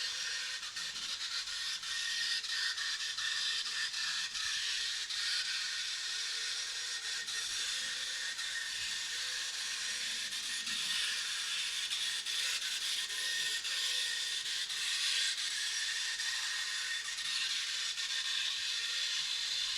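Model train running on its layout: the steady high hiss and whine of a small electric locomotive and its wheels on the rails, with faint clicks.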